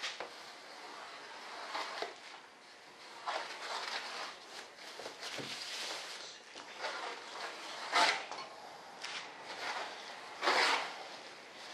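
Irregular scraping and rubbing from hand work on a resin-wet wood and carbon-cloth layup, with louder swishes about eight seconds in and again near the end.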